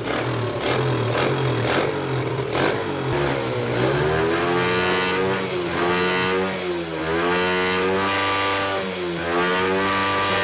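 Motorcycle engine being revved: a steady, even running for the first few seconds, then the pitch climbs and falls back several times as the throttle is blipped.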